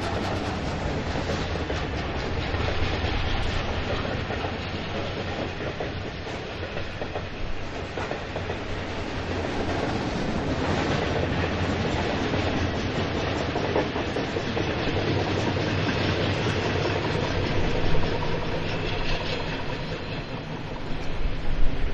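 A coal train of freight wagons rolling past, a steady rumble with the wheels clicking over rail joints and a brief louder knock near the end.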